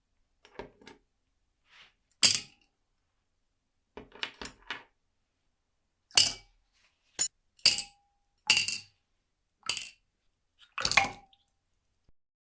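A dozen or so sharp metallic clinks and taps at irregular intervals, a few leaving a brief ring: small metal clock parts and tools being handled and set down on a hard work surface.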